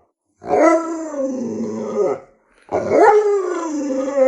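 Alaskan Malamute howling in two long, wavering calls of about two seconds each, with a short pause between them.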